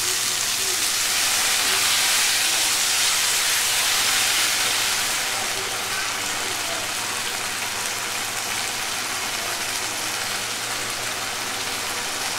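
Boiled chickpeas and masala gravy sizzling in a hot kadhai: a steady frying hiss, loudest in the first few seconds and settling slightly after about five seconds.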